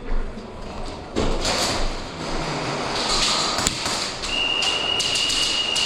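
Airsoft guns firing in a large indoor arena: a run of sharp clicks and BB impacts over a noisy wash. A steady high tone joins about four seconds in.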